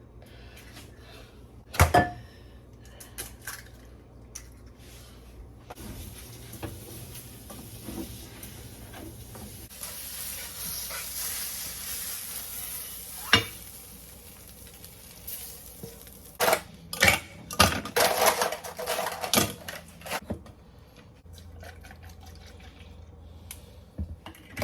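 Breakfast being made in a kitchen: dishes and utensils clinking and knocking now and then, with a steady hiss lasting several seconds in the middle, and a busier run of clattering later on.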